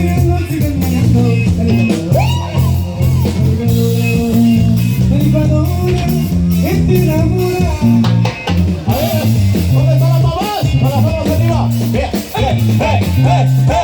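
A cumbia norteña band plays: a saxophone melody bends and wavers over a stepping bass line and drums, with quick repeated notes near the end.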